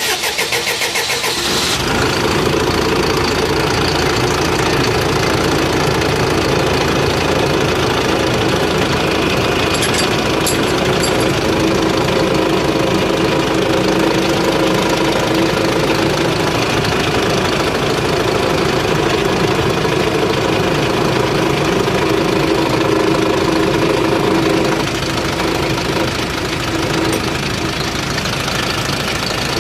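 Euro 4 engine, fitted with a new injector after hard starting, cranks for about two seconds, catches and runs steadily with a knocking clatter. About 25 seconds in the running note eases slightly.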